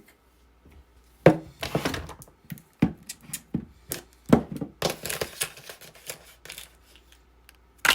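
Irregular knocks, clicks and rustling of objects being handled, with a sharper knock now and then.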